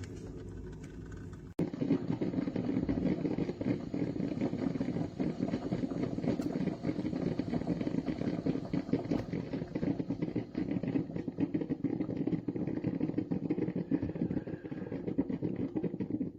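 Drip coffee maker brewing: a steady rumble with dense, irregular crackle and sputter, starting after a cut about a second and a half in.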